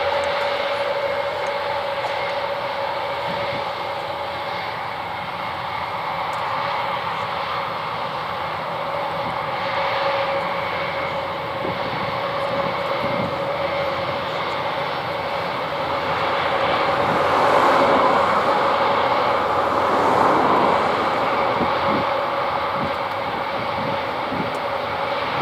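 Airbus A400M Atlas's four turboprop engines running at taxi power while the aircraft taxis and lines up for takeoff: a steady drone with a constant hum of engine and propeller tones, swelling louder for a few seconds past the middle.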